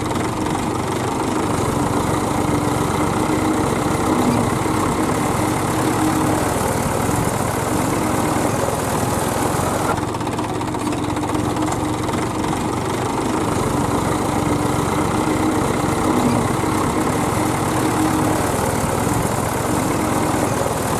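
Diesel engine of a tractor or backhoe loader running steadily, with a sudden change in the sound about halfway through.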